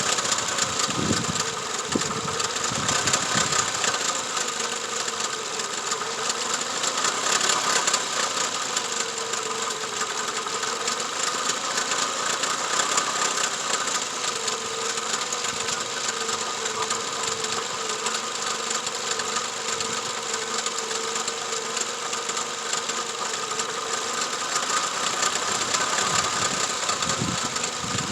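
2004 Toyota Camry engine idling steadily during a misfire check done by ear, with a few low thumps near the start and near the end.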